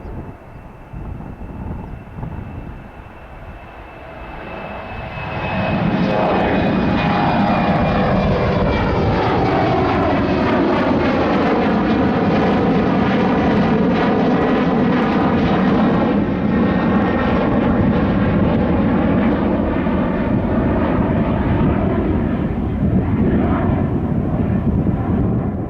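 Jet airliner's engines at take-off power as it climbs out from the runway. The noise swells about five seconds in and then holds loud, with a falling whine running through it.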